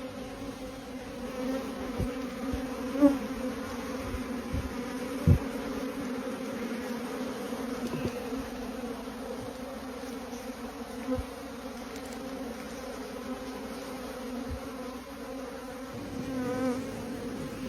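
Many bees buzzing together in a steady hum, with a few short low knocks, the loudest about three and five seconds in.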